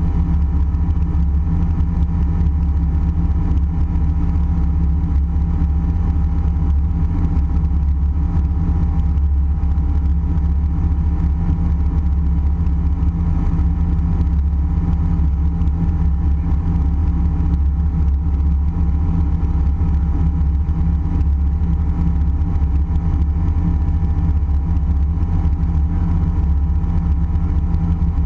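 Steady airliner cabin noise in flight: a loud, unchanging low drone of engines and airflow, with a few steady hum tones over it.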